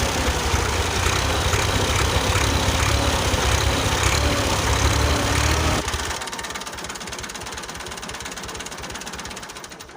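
Small motor of a home-made mini tractor running with a rapid knocking rattle. About six seconds in it suddenly gets quieter and continues as a fast, even ticking.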